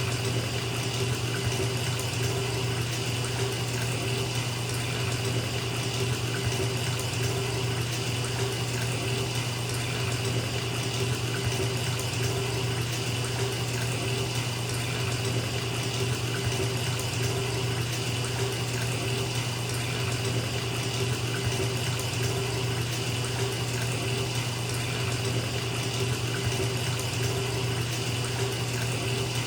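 Bathtub tap running steadily, water pouring into a filling tub in an even, unbroken rush.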